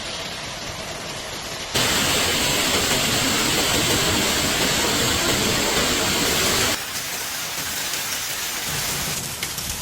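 Heavy torrential rain pouring down, a dense steady hiss. It jumps abruptly louder about two seconds in and drops back abruptly about seven seconds in.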